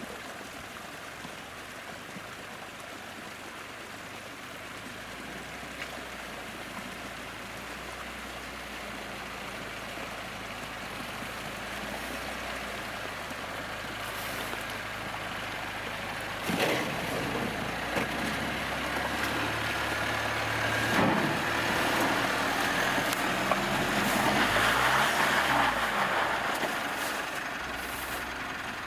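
Mitsubishi Pajero Sport's engine running under load while driving off-road, getting louder over time, with two sharp knocks partway through and a rev rising and falling near the end.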